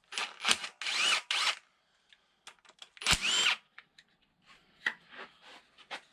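Short bursts of a cordless power tool spinning a socket on bolts of an LQ4 6.0 V8 being torn down, its motor pitch rising and falling in each burst: three bursts in the first second and a half and another about three seconds in, with small clicks of metal between.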